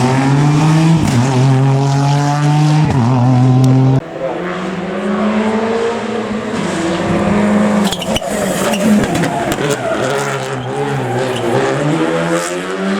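Rally car engines at full throttle: one car accelerates hard, its pitch climbing and dropping sharply at each upshift, then about four seconds in the sound cuts to another car whose engine note rises and falls through braking and acceleration, with a burst of sharp noise around eight seconds in.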